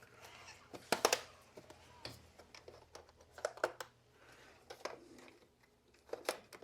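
Sharp plastic clicks and taps from a robot vacuum's casing being handled and taken apart, a few at a time with pauses between.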